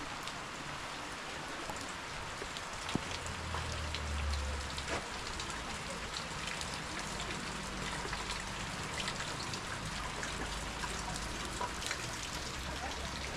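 Steady rain, with many single drops tapping close by. A brief low rumble comes in about three seconds in.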